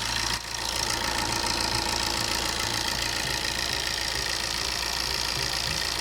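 Chevrolet Enjoy's 1248 cc four-cylinder diesel engine idling steadily. It has what the reviewer calls a perfect diesel engine sound, with no abnormal noise from the engine parts: a sign of a healthy engine.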